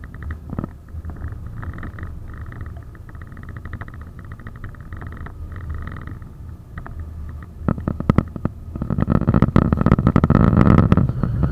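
71-931M Vityaz-M tram running on rails: a steady low rumble with light clicking, turning into louder rolling noise and rail knocks from about eight seconds in as it gathers speed.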